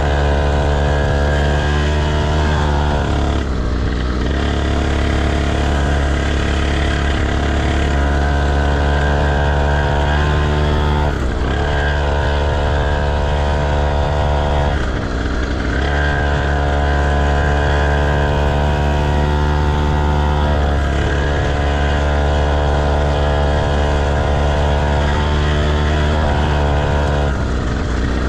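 Motocross bike engine running at fairly steady revs, its pitch dipping briefly and shifting a few times as the throttle changes.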